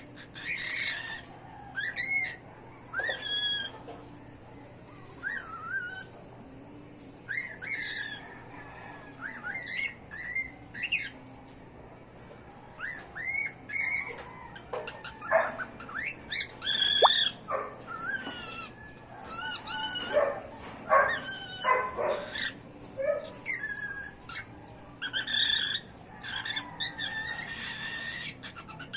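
Two pet cockatiels chirping and whistling, one with a hoarse voice. They give a steady run of short calls that sweep up and down in pitch, with brief pauses between them.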